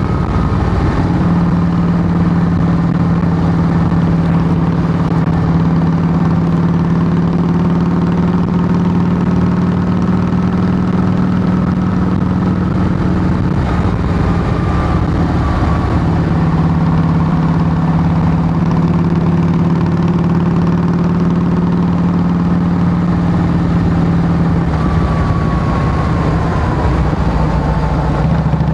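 Harley-Davidson Softail Heritage Classic's V-twin engine running steadily through Samson true-dual exhaust with fishtail tips: a loud, low, even exhaust note.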